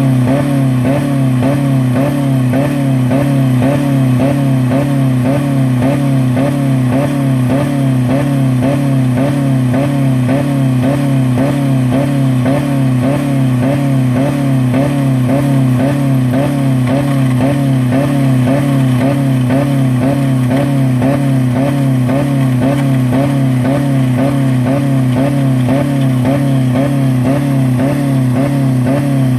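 Dodge Neon four-cylinder engine held at about 4000 rpm with the gas pedal to the floor, running with no oil or coolant. Its pitch wavers up and down in an even cycle about twice a second, as if it is bouncing off the rev limiter.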